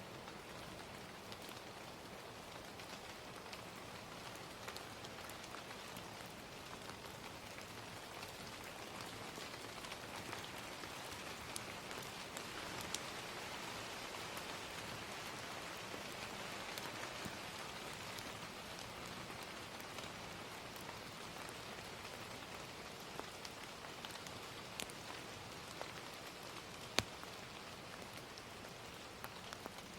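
Steady gentle rain, with scattered sharp crackles from a wood fire, one louder pop near the end.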